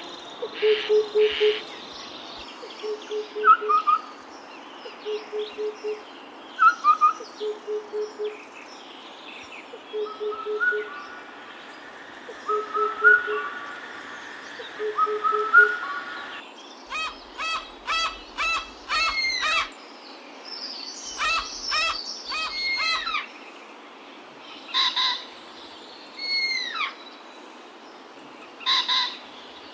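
Several birds calling: a low hoot given in quick groups of three or four notes, repeated every second or two, under scattered higher chirps. About halfway through, the hooting stops and a run of rapid sharp notes and falling whistled calls takes over.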